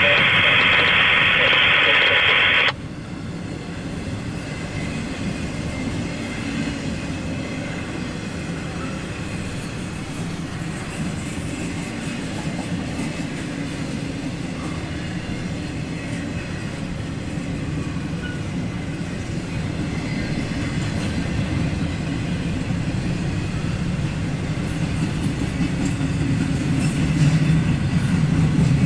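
Cars of a long CSX intermodal freight train rolling past, a steady rumble and clatter of wheels on rail that grows louder near the end. It opens with a loud steady buzz that cuts off sharply about three seconds in.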